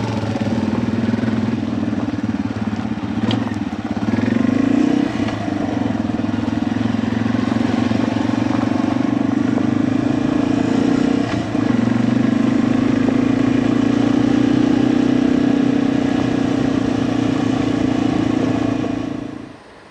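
Yamaha TW200's single-cylinder four-stroke engine running steadily under way, getting louder about four seconds in and again, after a brief dip, about twelve seconds in. The sound cuts off suddenly near the end.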